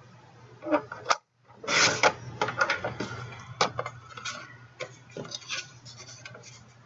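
Cardstock and craft tools being handled on a worktable: a run of irregular clicks, knocks and short rubbing or sliding sounds. The sound cuts out completely for a moment a little over a second in.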